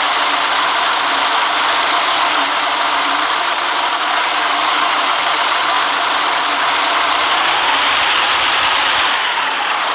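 City bus running on a wet road: steady engine hum and tyre noise, with a falling whine near the end.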